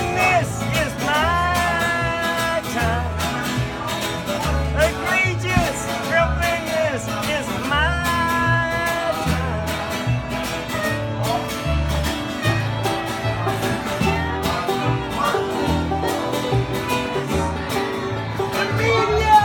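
Live bluegrass string band of fiddle, banjo, guitar and bass playing an instrumental passage over a steady, pulsing bass line.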